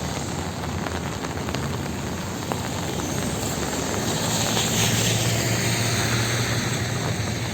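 Steady rain falling on a city street, with a vehicle passing on the wet road, its tyre hiss and engine swelling to their loudest about five seconds in.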